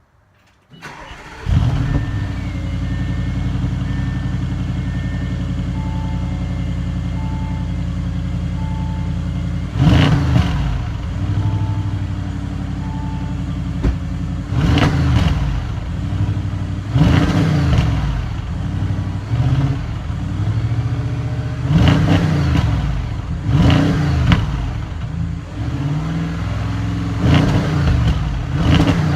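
2018 Audi S6's twin-turbo V8 starting up and idling steadily, then free-revved six or seven times, each rev rising and falling in pitch.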